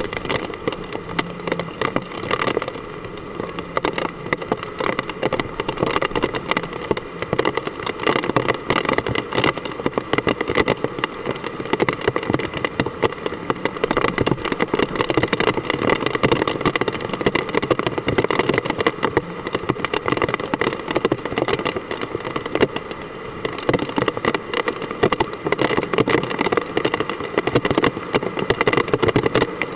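Heavy typhoon rain pouring steadily, a dense crackle of drops.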